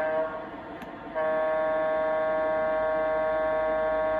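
MTH RailKing SW1500 O-gauge model diesel switcher's sound system blowing its horn through the locomotive's speaker: a blast that stops just after the start, then a long steady blast from about a second in, over the low rumble of the simulated diesel idling.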